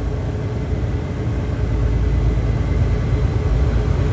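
A car ferry's engines running steadily: a continuous low rumble with a faint steady hum above it, getting a little louder about two seconds in.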